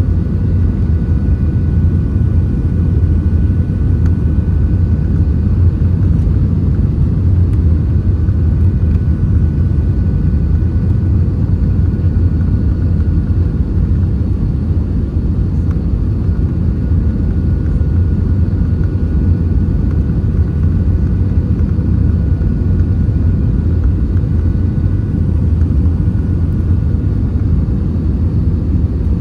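Steady, loud low rumble inside an Airbus A320-232 cabin: engine and airflow noise, with faint steady whining tones above it.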